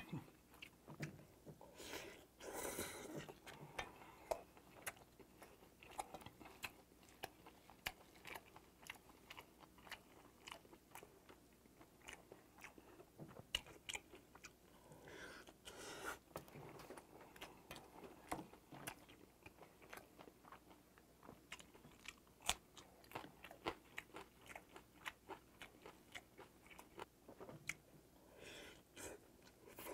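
A person chewing mouthfuls of bibimbap with sea urchin roe and beef tartare, close to a clip-on microphone: faint, many quick wet mouth clicks and smacks, with a few softer, longer mouth or breath noises in between.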